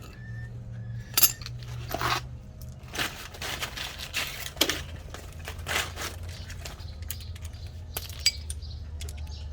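Metal tools and loose fasteners clinking, rattling and scraping as they are handled, in scattered knocks with a sharp click about a second in and another near the end. A steady low hum sits underneath.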